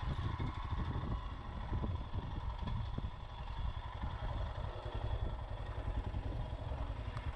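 Motorcycle engine running while riding, with a steady, fluttering low rumble of wind buffeting the microphone.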